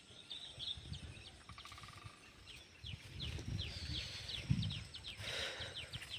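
Small birds chirping outdoors in a rapid, irregular series of short, high, downward-sliding chirps, over low rumbling noise, with a brief rustle about five seconds in.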